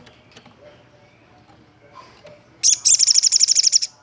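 Olive-backed sunbird singing: after a quiet start, a loud, rapid trill of high, sharp notes, about ten a second, about two and a half seconds in, lasting just over a second.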